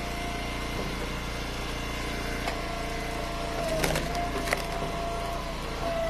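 Eastonmade Ultra hydraulic wood splitter running steadily while a firewood round is split, with a few sharp cracks of the wood splitting around the middle. The engine note sags briefly twice as the splitter takes load.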